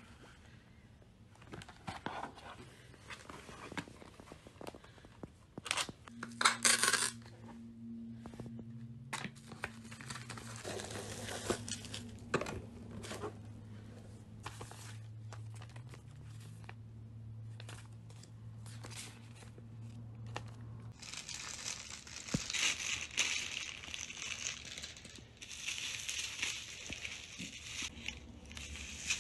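Cardboard box and plastic packaging of USB stereo speakers being handled and opened: scattered taps and clicks, a short rip about six seconds in, then steady crinkling of plastic wrap over the last several seconds. A faint low hum runs underneath through the middle.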